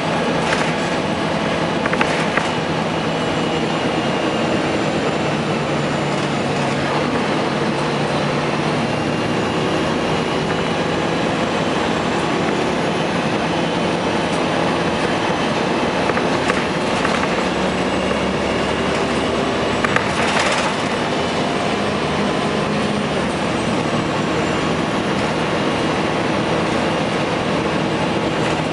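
2004 Gillig Phantom transit bus running, its Cummins ISM inline-six diesel and Voith D864.3E automatic transmission droning steadily. A few sharp knocks and rattles come through, and a faint high whine slowly rises and falls.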